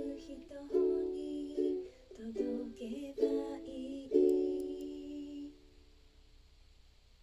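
Ukulele strumming a series of chords, the last one ringing out and dying away about five and a half seconds in, leaving near silence.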